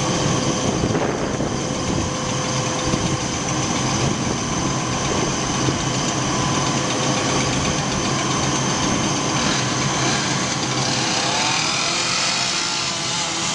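Fire engine's diesel engine running steadily at idle, with a constant hum of several held tones. Faint rising and falling glides come in near the end.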